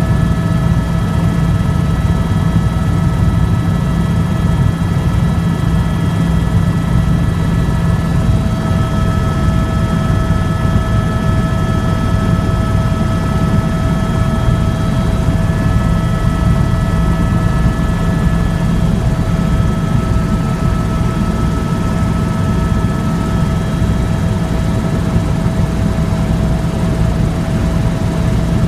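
Tour helicopter running steadily: a heavy, even rotor throb with a constant high-pitched whine over it.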